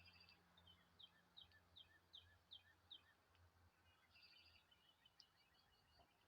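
Faint songbird calls: a run of six short, quick downslurred whistled notes about one to three seconds in, with brief twittering before and after, over a low background hum.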